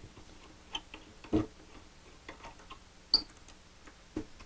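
A few scattered clicks and knocks from work on an old wooden kitchen table as its legs are taken off: a low knock about a second and a half in and a sharp metallic click about three seconds in.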